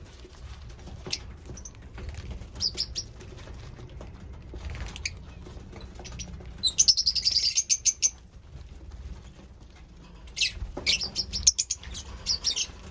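Lovebirds chirping in short, rapid clusters of sharp high calls, with a dense run of chirps about seven seconds in and another near the end.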